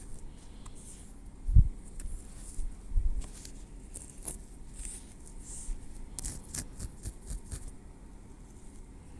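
Metal tweezers working through hair on a scalp: soft scattered clicks and light scraping, with a quick cluster of ticks near the end. Two dull thumps come about one and a half and three seconds in, the first the loudest.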